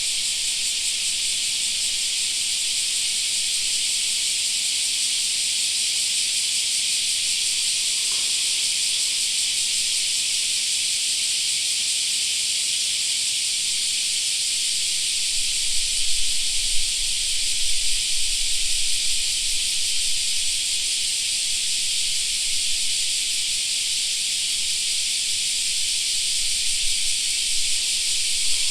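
A chorus of cicadas makes a steady, unbroken high drone. A few brief low rumbles come in about halfway through and again near the end.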